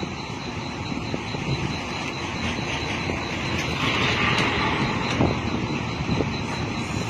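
Heavy truck engine running steadily, with a hiss swelling about three and a half seconds in and fading a second or so later.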